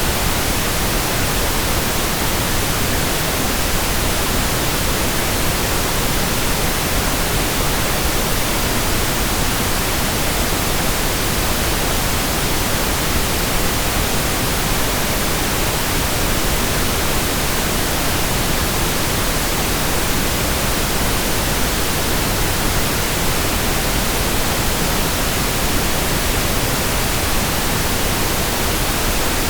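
Steady synthetic pink noise: an even, unchanging hiss spread across all pitches, with no breaks or events.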